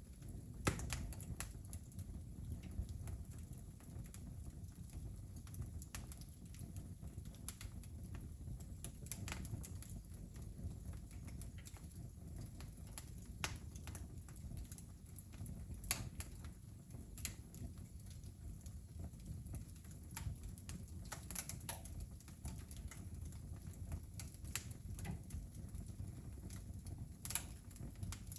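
Wood fire crackling: irregular sharp pops and snaps from burning logs over a low steady rumble.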